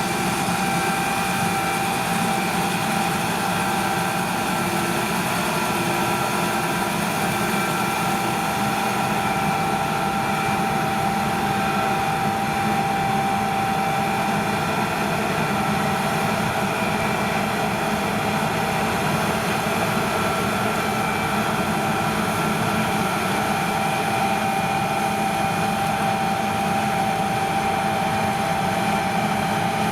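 Farm harvest machinery running steadily at constant revs, an engine sound with a steady whine over it and no change in pitch.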